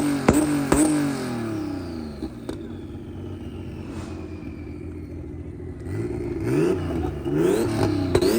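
Car engine revved in quick repeated blips with sharp cracks, dying down to a lower running sound in the middle with a slow falling whine, then revving in blips again near the end.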